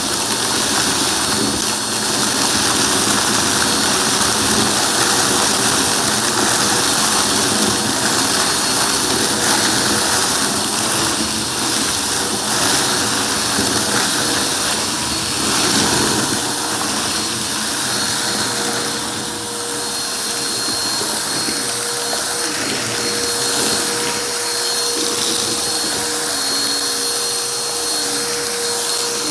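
Vacuum cleaner running steadily with a constant hum and high whine, with a fine crackle as it sucks up crunchy debris.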